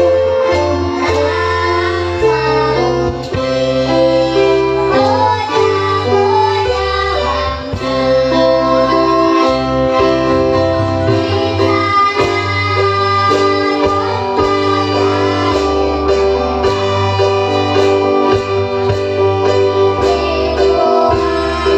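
A child singing a song over an instrumental backing with guitar and a stepping bass line.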